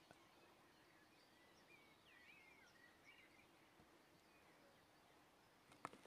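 Near silence outdoors, with faint distant songbird chirps in the middle and a single faint click near the end.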